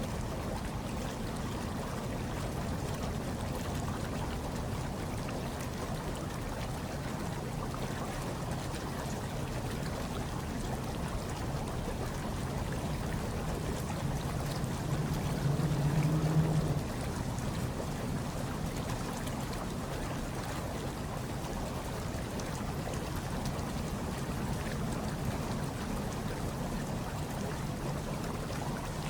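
Hot tub water bubbling and churning steadily, a low watery rush. It swells louder for a couple of seconds about halfway through.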